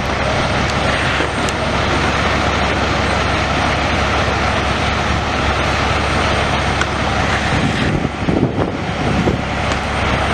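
A heavy vehicle's engine running steadily, with a loud, even rush of road noise.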